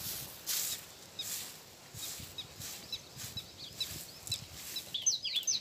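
Birds chirping faintly with soft scratchy rustles. Near the end a bird starts a quick series of sharp, repeated chirps.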